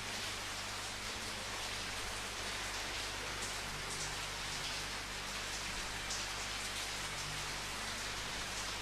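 Steady rain falling, an even hiss with scattered individual drops spattering on a surface.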